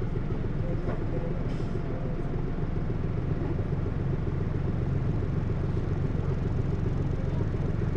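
Hino U-HT2MLAA city bus under way, its engine and drivetrain giving a steady low drone with a rumble. The bus is one whose running sound tends toward abnormal noise, which the uploader likens to a sister bus near the end of its service life.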